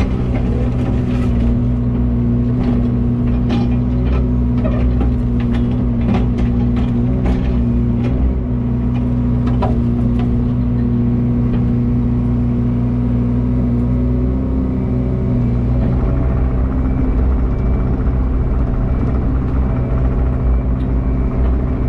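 A heavy machine's engine running at a steady speed, with scattered sharp cracks and snaps over the first ten seconds or so.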